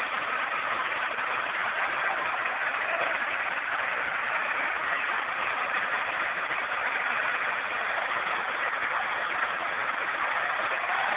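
Tractor engines running steadily under load in a tractor tug-of-war, a dense, even mechanical noise with no distinct beat.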